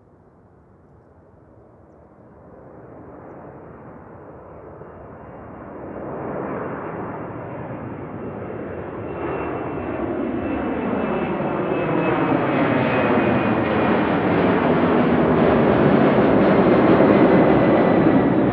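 Boeing 767 freighter's jet engines, growing steadily louder from faint to a loud roar, with a faint high whine sliding slowly down in pitch as it comes close.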